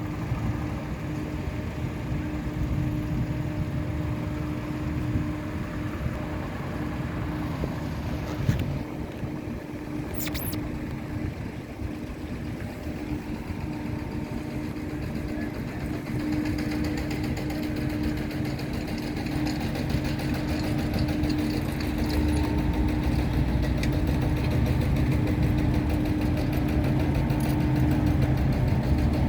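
An engine running steadily with a constant droning hum, getting louder about two-thirds of the way through.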